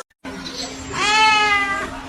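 A cat meowing once, a single long call of about a second that sags slightly in pitch at the end.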